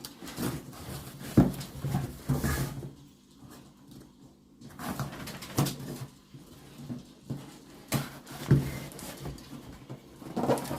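Scattered knocks and rustles of kit parts and packaging being handled, with a dog whimpering now and then.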